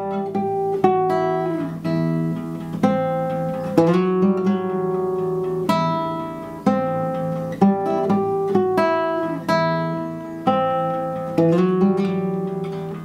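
Guitar playing a slow melodic phrase: a note or chord picked about once a second, each left to ring out, with several notes sliding in pitch.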